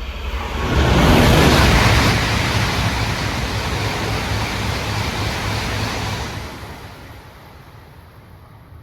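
Shinkansen bullet train passing at high speed: a rushing roar that swells sharply about a second in, holds for several seconds, then dies away.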